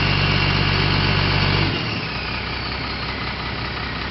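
Crane truck engine running steadily. About one and a half seconds in, its note drops away and it carries on quieter and lower.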